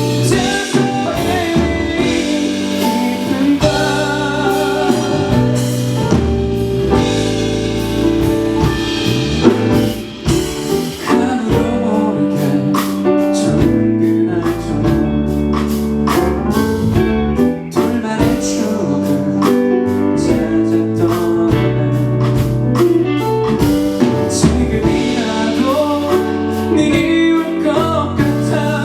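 Live band music: a male singer sings over guitar, bass and drums, with the drums and cymbals coming in harder from about ten seconds in.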